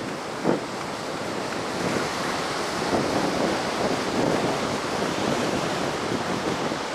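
Heavy Pacific surf breaking and washing on a sandy beach, stirred up by a passing typhoon, with wind buffeting the microphone. The wash grows a little louder about two seconds in, and there is one short thump about half a second in.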